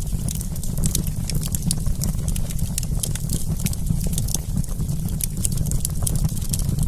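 Wood campfire crackling: many small sharp pops and snaps, several a second at irregular intervals, over a steady low rumble.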